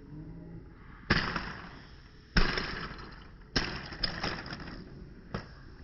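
A run of sudden crashes, each trailing off over about a second: three loud ones about a second apart, then a few smaller knocks.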